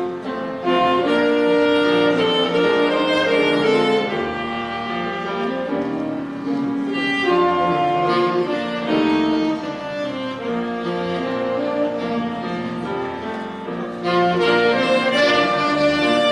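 Instrumental duet playing a slow ballad melody in long held notes, with a wind instrument and a bowed string instrument carrying the tune over accompaniment. It swells louder near the end.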